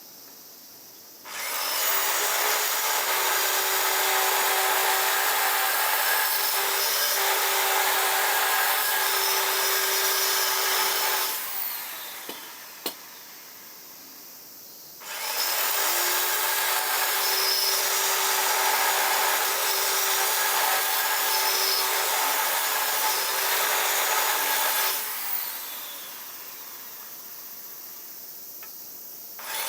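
Hand-held electric power tool running against a workpiece in two long runs of about ten seconds each, a steady whine under a rough working noise. A single click falls in the pause between them, and a third run starts at the very end.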